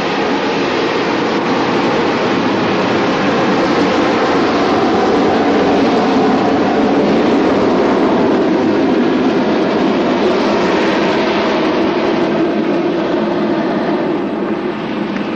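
Jet aircraft passing over: a steady engine roar that builds to its loudest about halfway through and fades toward the end.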